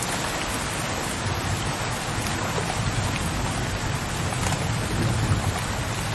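Steady rain falling in a continuous hiss, with a low rumble of distant thunder that swells a little about halfway through and again near the end.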